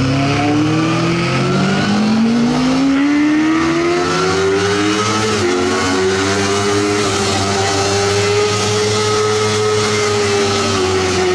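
Sportbike engine accelerating, its pitch climbing steadily for about five seconds, then holding at high revs and easing off slightly near the end.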